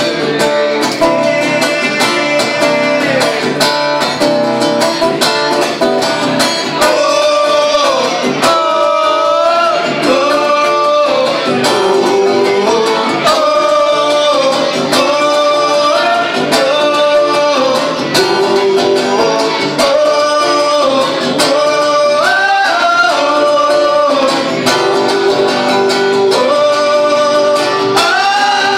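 Live country-rock band music led by guitar, with a held, sliding melody line over a steady beat and no sung words.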